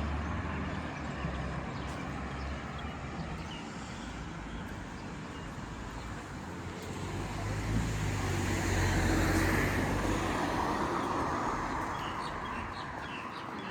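Street traffic: a low engine hum fading away at the start, then a passing car whose engine and tyre noise swells about eight seconds in and dies away.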